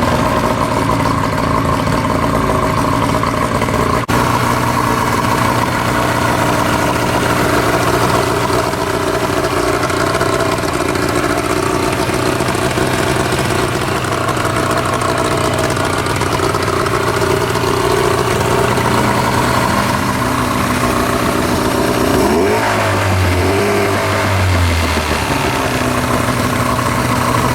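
Suzuki DT 40 two-stroke outboard motor running steadily at idle, with a short change in engine speed about 22 seconds in.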